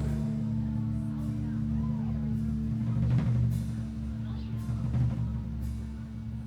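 Live band on stage: a sustained low note from the amplified instruments, with a few scattered drum and cymbal hits about halfway through.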